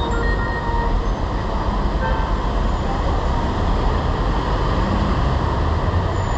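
Steady city street traffic noise with a heavy low rumble, and a few faint short tones near the start and about two seconds in.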